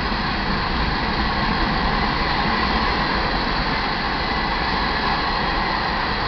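Steel wheels of iron ore hopper cars rolling past on the rails, a steady loud rolling noise of a freight train going by.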